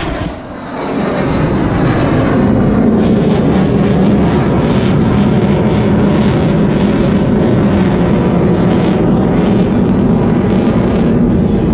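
Engines of formation display aircraft flying past low: loud, steady engine noise that dips briefly just after the start, then builds back up and holds.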